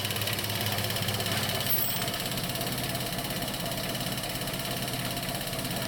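Datsun A12 1.2-litre pushrod four-cylinder idling steadily on a newly fitted single-injector throttle-body EFI setup, with the fuel injector ticking rapidly.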